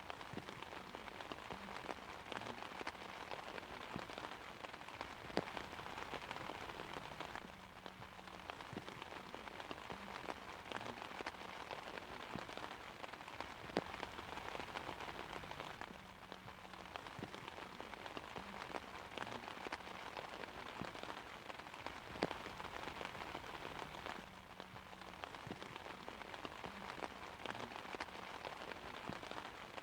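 Steady rain pattering on an umbrella: a dense hiss of drops with many sharp individual taps and a few louder single drops standing out.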